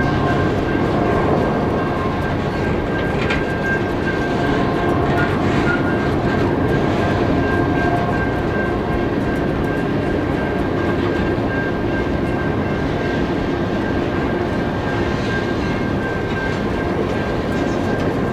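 Freight train of covered hopper cars rolling past close by, its wheels making a steady loud rumble on the rails, with a thin high-pitched whine held over it.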